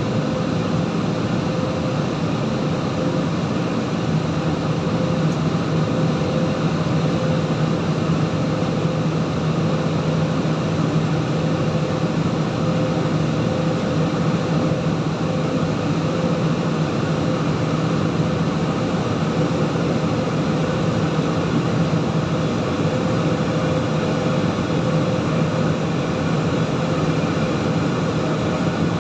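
Steady drone of a jet airliner heard inside the passenger cabin: engine and airflow noise with a constant low hum, unchanging throughout.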